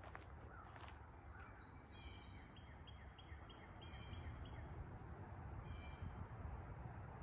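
Faint birds calling in woodland: a few harsh, buzzy calls spaced about two seconds apart, a quick run of short repeated chirps after the first one, and scattered high thin chips, over a low steady rumble.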